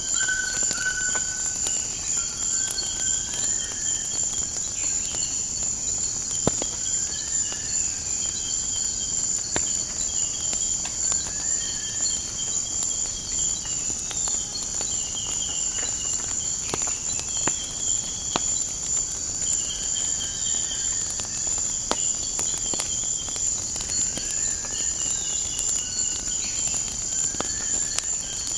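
A steady high-pitched insect chorus drones throughout and is the loudest sound. Birds whistle short repeated notes over it, and scattered sharp pops of a crackling wood fire come through.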